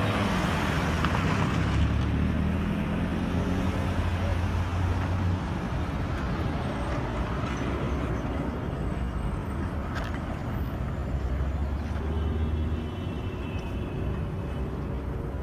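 Street traffic: motor vehicles pass with a low engine drone, first in the opening few seconds and again about two-thirds of the way through, over steady road noise.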